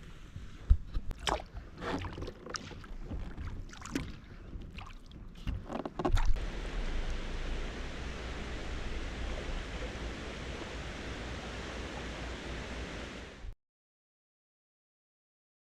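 Kayak paddling: irregular splashes and knocks of paddle strokes in the water for about six seconds, then a steady rushing noise with a low rumble for about seven seconds that cuts off abruptly into silence.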